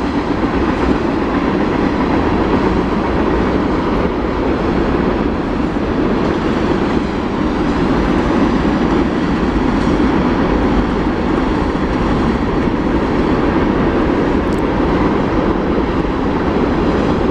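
A train of empty coal hopper cars rolling past on the rails: a steady, loud noise of wheels and rattling cars that keeps up without a break.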